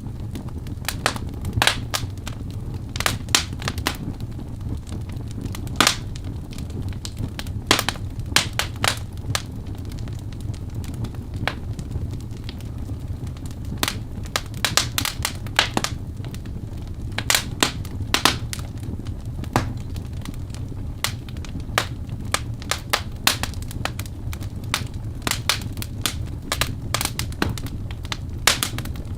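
Wood fire of burning logs in a fireplace, crackling and popping in irregular sharp snaps over a steady low rumble of the flames.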